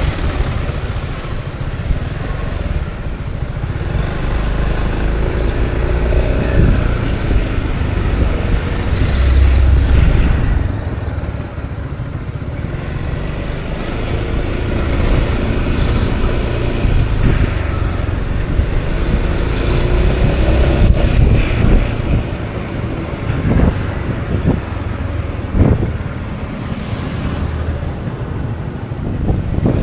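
Wind rushing over an action camera's microphone while riding a Honda Forza 350 scooter, over the scooter's engine and road noise. The rush swells louder about ten seconds in and again around twenty-one seconds.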